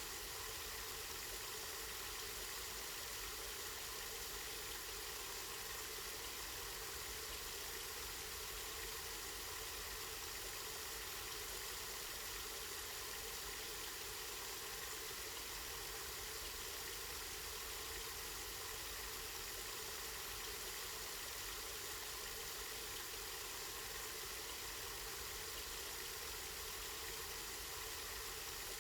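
Spring water running and splashing steadily, an even rushing that does not change, with a low steady rumble underneath.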